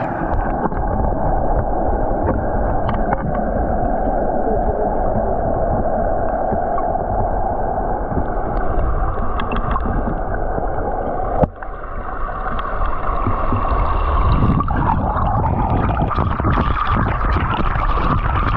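Waterfall rushing steadily, a loud, even noise. About eleven seconds in it drops out for a moment with a click, then comes back with more low rumble.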